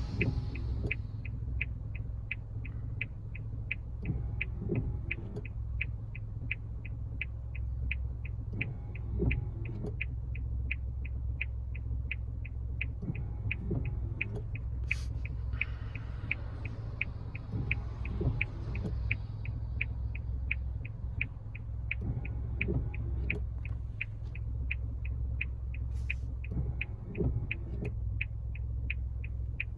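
Indicator relay of a car's hazard lights clicking steadily, nearly three clicks a second, over the low rumble of the idling engine, with a short soft sound every four or five seconds.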